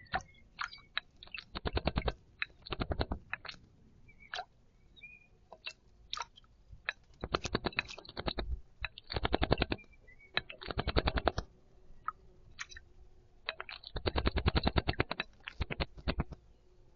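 A small garden bird bathing in a shallow bowl of water, flicking its wings to splash in quick bursts of rapid splashes, about five bursts with single flicks between them. A few short bird chirps are heard faintly.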